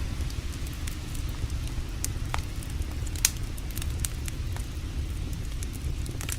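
Campfire crackling, with scattered sharp pops over a steady low rumble; the sharpest pop comes about three seconds in.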